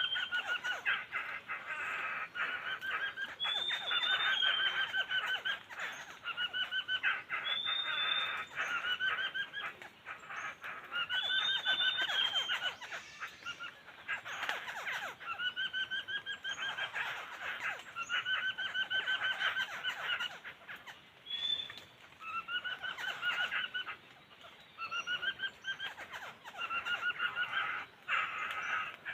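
Laughingthrush calling over and over: a chattering phrase of quick repeated notes about every two to three seconds, with a few short higher whistled notes in between.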